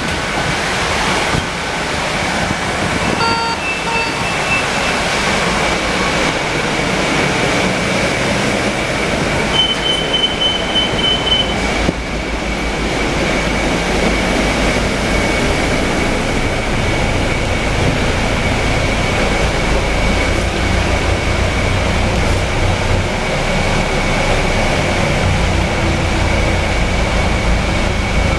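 Interior of a Scania K320UA city bus under way: engine and road noise with a steady high whine, rumbling more strongly in the low end from about halfway through. Short electronic beeps sound a few seconds in, and another beeping tone comes around ten seconds in.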